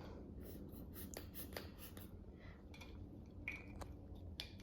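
Faint clicks and soft rustling of a plastic toy being handled, a few small clicks spread through.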